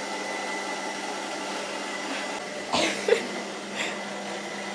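Robot vacuum cleaner running with a steady whirring hum. A few short, louder noises break in about halfway through and again near the end.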